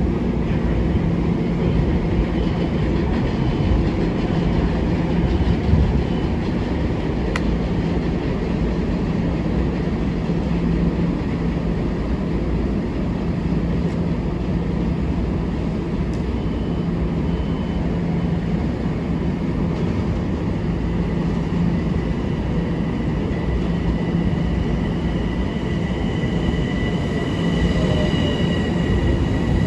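Long Island Rail Road train running through the station: a steady loud rumble with a low hum and thin high tones, which slide down in pitch near the end.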